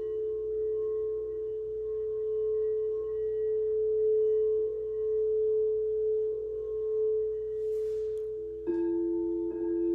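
Quartz crystal singing bowls ringing with two close, steady tones that swell and fade slowly. About nine seconds in, another bowl is struck and a new, higher tone joins the ringing.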